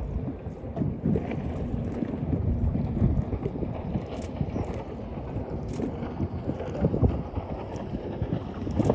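Jet ski running on the open sea, its engine and water noise mixed with heavy wind buffeting on the microphone.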